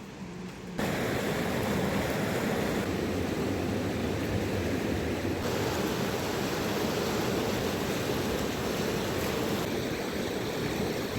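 Fast-flowing river water rushing steadily, cutting in abruptly about a second in.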